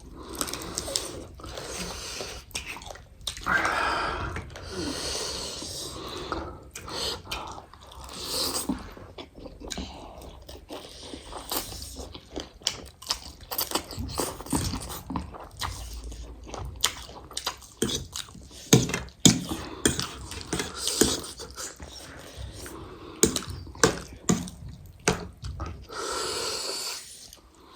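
Close-up chewing and biting of spicy chicken and noodles, with many short, sharp smacks and clicks and a few breathy sounds in between.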